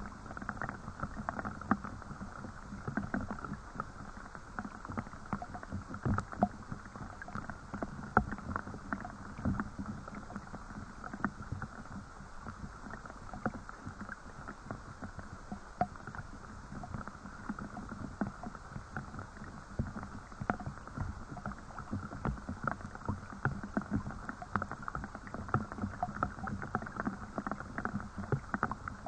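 Steady rain: a constant hiss with a dense run of irregular small drop impacts.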